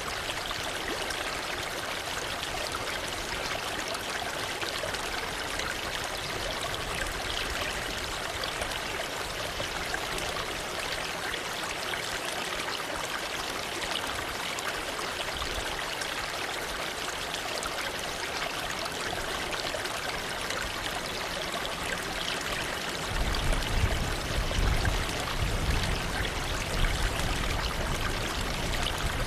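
Waterfall rushing steadily, an even wash of falling water. About three-quarters of the way through, a low rumble joins in with a few louder swells.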